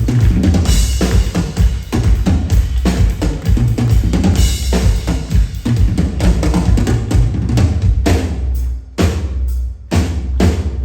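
Loud percussion performance with drums and a heavy bass drum beating out a fast, dense rhythm; about nine seconds in the beat breaks into a few separate hits with short pauses between them.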